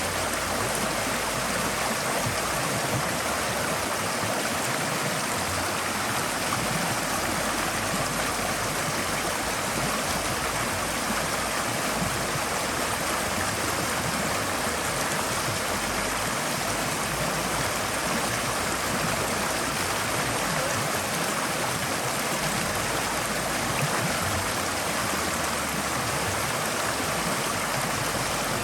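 Forest stream flowing steadily over stones, a continuous rushing and babbling of water.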